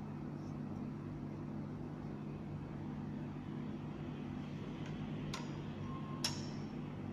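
Steady low mechanical hum, with two sharp clicks near the end and a short steady tone just before the second, louder click.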